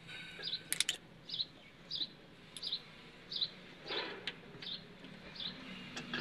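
A bird chirping over and over, one short high note about every two-thirds of a second. Between the chirps come a few sharp metallic clicks, with a cluster of them about a second in.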